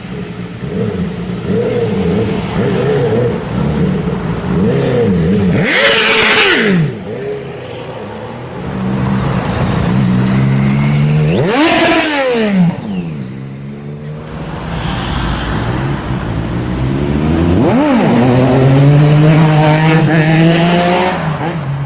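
Sport motorcycles accelerating hard past one after another, engines revving up and dropping in pitch as each goes by. There are loud pass-bys about six, twelve and eighteen seconds in.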